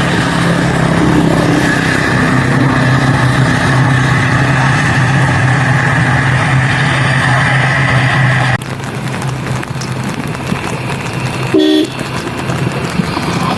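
Jet aircraft engines running with a steady drone and whine, cut off abruptly about eight and a half seconds in. A short horn-like toot sounds near the end over quieter background noise.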